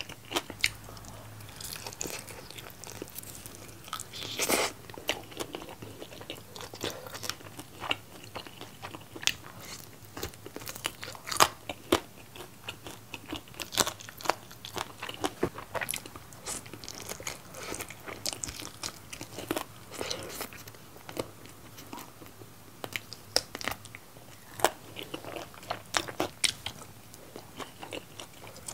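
Close-up chewing and biting of bone-in Korean seasoned fried chicken, with frequent irregular sharp crunches.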